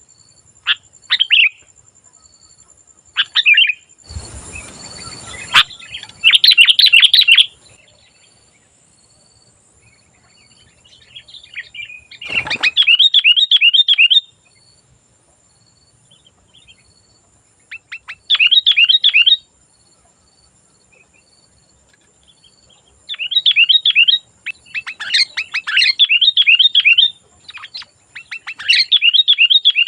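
Sooty-headed bulbul singing in short bouts of quick, chattering repeated notes, with pauses of a few seconds between bouts. A thin steady high tone runs underneath, and there are a couple of brief thumps.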